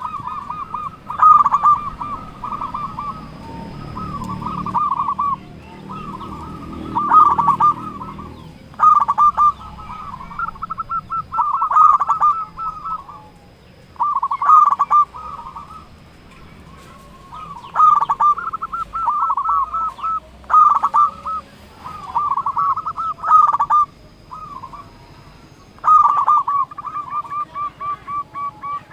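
Local zebra dove (perkutut) cooing repeatedly: a loud rolling phrase of quick stuttering notes every two to three seconds, the full territorial call used to provoke other male doves into answering.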